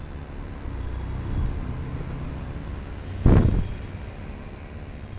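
Steady low rumble of vehicle traffic, with a sudden short loud blast of noise about three seconds in.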